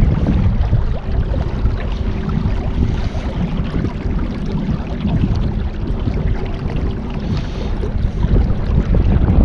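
Boat motor running steadily under way, with wind buffeting the microphone and a low rumble.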